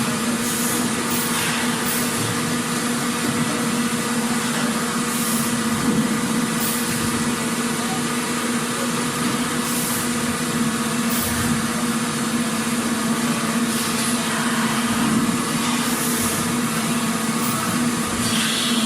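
Factory machinery running: a steady low hum with an even mechanical noise, and short hisses breaking in every few seconds.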